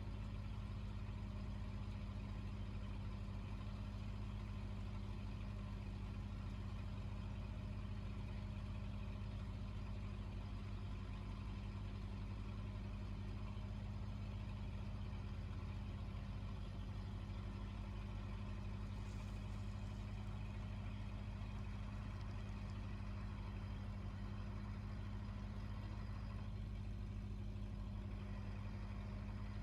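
Fishing boat's engine running steadily with an even, low drone.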